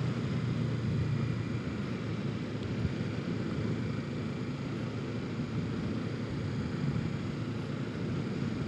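Kawasaki Ninja 650's parallel-twin engine running at a steady pace while riding, mixed with wind rushing past the helmet microphone.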